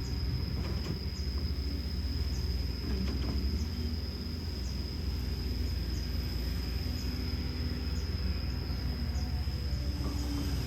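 Hino J05E-TG four-cylinder turbo diesel of a Kobelco SK210LC excavator running steadily, a low rumble, with a steady high-pitched whine and scattered short high chirps over it.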